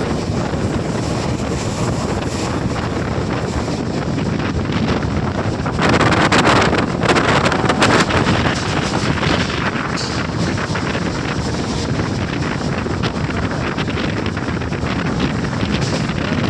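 Wind rushing over the microphone from a moving passenger train, with the steady running noise of the train underneath. It gets louder and harsher for about two seconds, about six seconds in.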